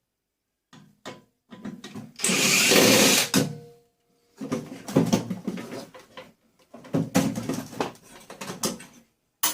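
Metal knocks and clatters from a microwave oven being broken apart with a hammer, its parts worked loose in a vice. About two seconds in comes a loud, harsh noise lasting about a second, followed by a brief ringing tone, then a run of irregular knocks and clanks.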